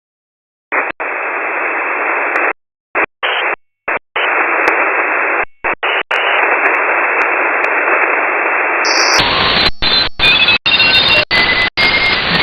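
Shortwave receiver static heard through a WebSDR: a steady, filtered hiss that keeps cutting out for brief moments. About nine seconds in the hiss turns brighter and wider, and faint thin whistles of carriers come through it.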